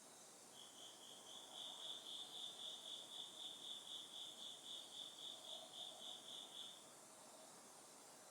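An autumn cricket chirping: a run of about twenty even, high-pitched pulses, roughly three a second, that stops near the end, over a faint steady background hush.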